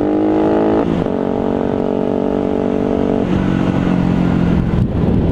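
Motorcycle engine running at steady revs while riding, its pitch dipping briefly about a second in, then stepping down to a lower steady note a little after three seconds.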